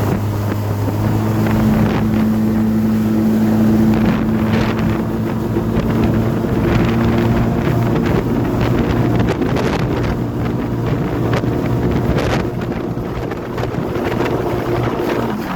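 Personal watercraft engine running steadily under way, with wind noise on the microphone.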